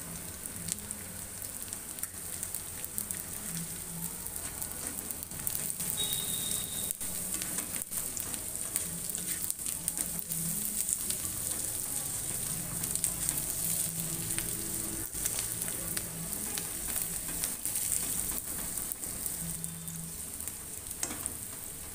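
Sliced bamboo shoots, onions and raw rice frying in oil in a wok, sizzling steadily as they are stirred with a spatula. Scattered scrapes and taps of the spatula against the pan run through it.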